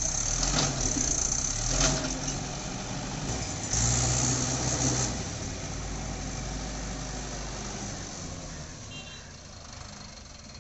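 Mahindra 475 DI tractor's diesel engine labouring under load, rising to a louder surge about four seconds in, then easing off and fading near the end, as the stuck, loaded tractor and trolley strain to move.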